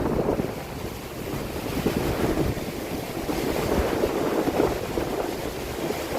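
Surf breaking on a beach at high tide, mixed with strong wind gusting on the microphone as a low rumble.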